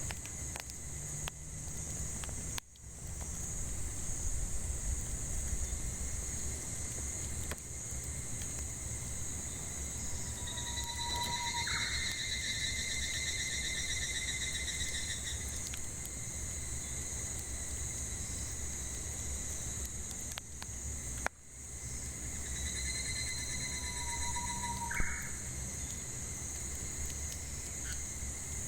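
A steady, high-pitched chorus of cicadas, with a bird calling twice: a short low note, then a longer, higher trilled phrase, about a third of the way in and again near the end. A few faint crackles come from the wood fire.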